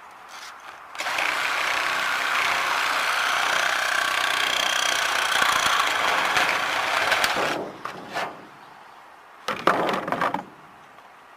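A handheld power tool runs steadily for about six seconds, starting about a second in and stopping near the middle, then a short second burst of the tool near the end.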